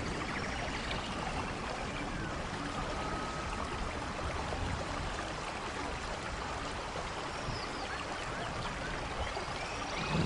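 Steady rainfall, an even hiss of falling and running water.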